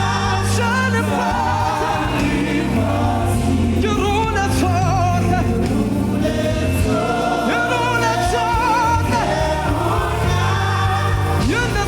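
Gospel worship song: a choir and lead voices singing with vibrato over a band, with steady bass notes.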